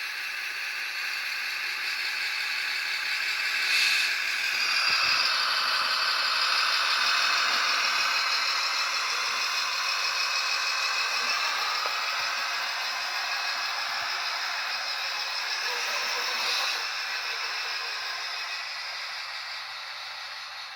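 Cross RC HC6 RC truck's electric motor and geartrain whining as it drives, the pitch climbing and sinking with the throttle, with a rattle from the drivetrain and chassis.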